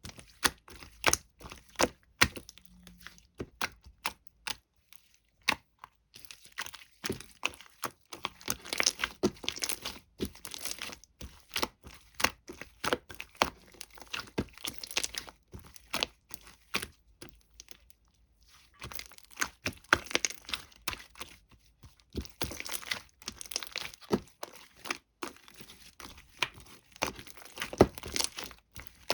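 Hands stretching, folding and pressing a melted marbled slime: dense runs of sticky crackles, pops and snaps, with short pauses about five seconds in and again about eighteen seconds in.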